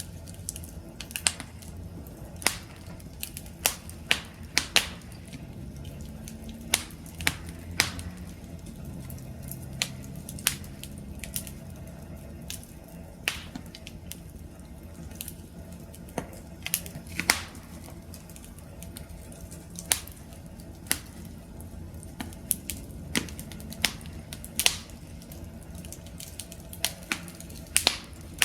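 Wood campfire crackling: irregular sharp pops and snaps over a low, steady background.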